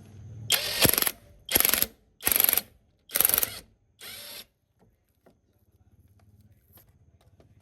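Five short, loud rasping strokes of a hand tool worked back and forth, about one every 0.8 seconds, followed by a faint low hum.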